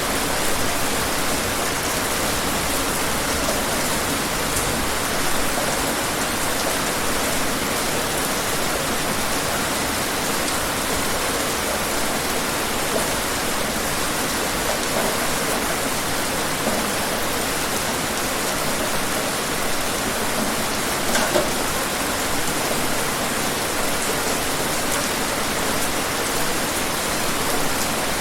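Steady rain falling on a surface, a dense even patter with a few slightly louder individual drops, one about two-thirds of the way in.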